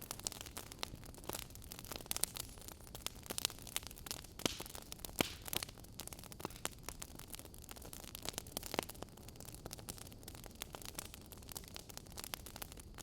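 Wood fire crackling: irregular sharp pops and snaps over a steady low hiss, with a few louder pops.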